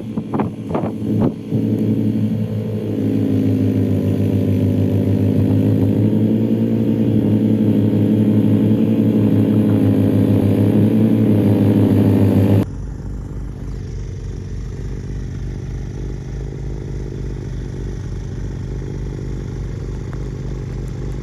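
Engine running steadily, with a few clicks near the start. About thirteen seconds in the sound cuts abruptly to a lower, evenly pulsing engine sound.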